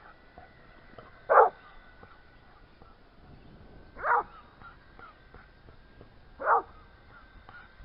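A dog barking three times, single short barks about two and a half seconds apart, over a faint steady high whine.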